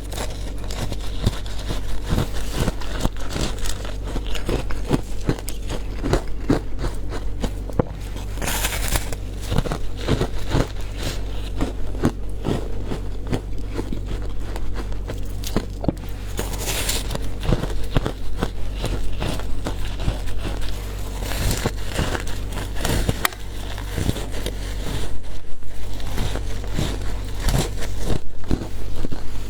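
Frozen matcha ice being bitten and chewed: a dense, continuous run of sharp cracks and crackles from the ice breaking between the teeth, over a steady low hum.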